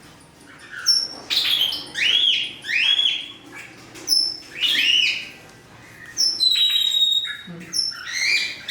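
Cockatiels chirping and calling, repeated short arched chirps coming once or twice a second, with one longer held whistle about two-thirds of the way through.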